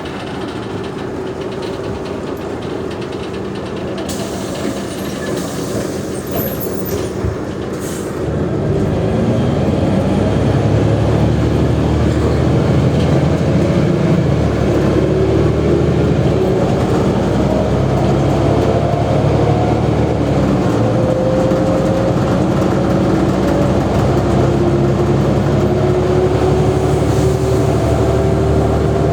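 Mercedes-Benz O345G articulated bus's diesel engine running, then pulling harder from about eight seconds in, with a whine that climbs slowly in pitch as the bus gathers speed.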